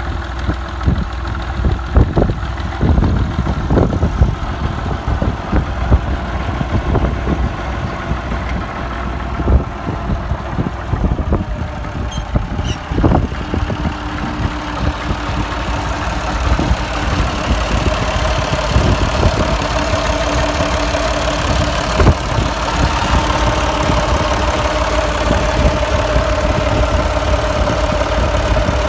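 Allis-Chalmers farm tractor engine running, with irregular thumps over the rumble in the first half. About halfway through a steady whine sets in and the running grows a little louder.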